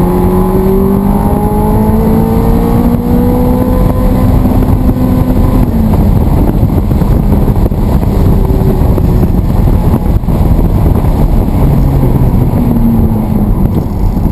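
Exotic sports car's engine accelerating hard, its pitch climbing for about five seconds, then dropping at a gear change and climbing again near the end, over a steady rush of road and wind noise.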